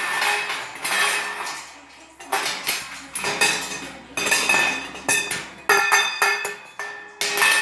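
Metal cage bowls being clanged and rattled by a cockatoo, a run of sharp metallic clatters about once a second, each ringing briefly.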